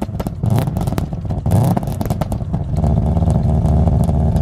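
Subaru Impreza GC8 rally car's flat-four engine just after a cold start, heard at the exhaust tailpipe. It runs unevenly with sharp pops and a brief rise in revs, then settles into a steady idle about three seconds in.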